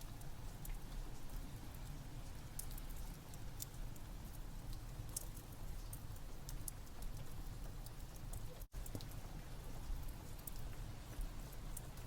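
Rain ambience with a wood fire crackling: a steady wash of rain and low rumble under scattered sharp, irregular pops and crackles. The sound cuts out completely for a split second about two-thirds of the way through, like a loop splice.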